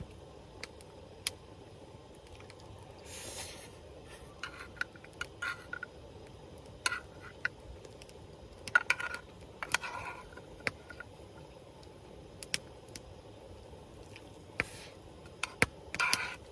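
An eating utensil clinking and scraping against cookware while someone eats from it: scattered sharp clicks and short scrapes, with a longer scrape near the end.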